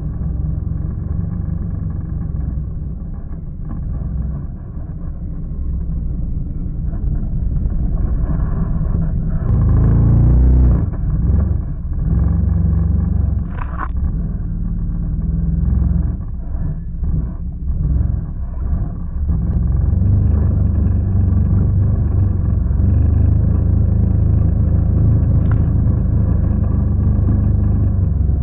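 Quad bike (ATV) engine running under way, a low rumble whose note rises and falls as the throttle is worked, loudest about ten seconds in and again in the second half.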